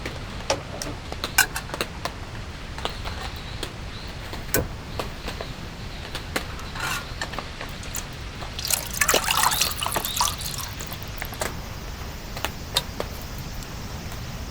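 Water dripping in scattered single drops, with a denser rush of splashing, pouring water for about two seconds around nine seconds in.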